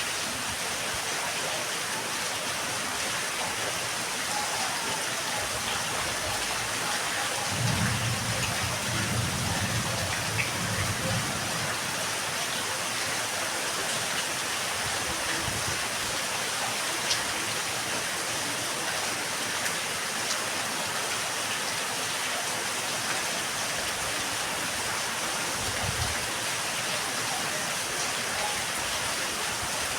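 Steady rain falling, an even hiss with the odd sharp drip, and a low rumble from about 8 to 11 seconds in and again briefly near the end.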